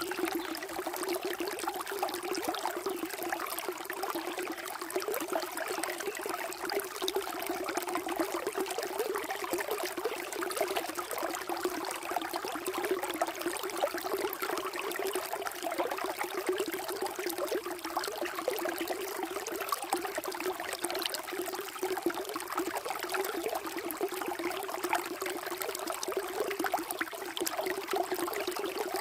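Flowing water: a steady trickling, bubbling stream.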